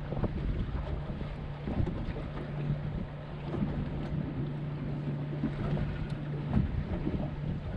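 Strong wind rumbling on the microphone aboard a small fishing boat. Under it runs a steady low hum from the electric trolling motor, which drops out briefly about two seconds in.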